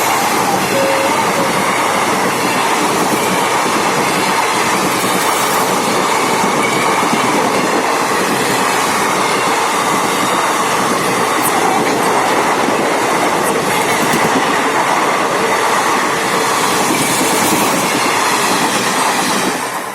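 Train passing, a steady loud run of wheels on the rails. The noise starts to drop away just before the end as the train clears.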